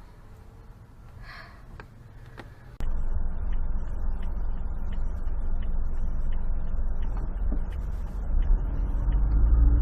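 Low, steady rumble of a car being driven, picked up by a dashcam, with a few light ticks; it starts suddenly about three seconds in, after a few quiet seconds with faint clicks.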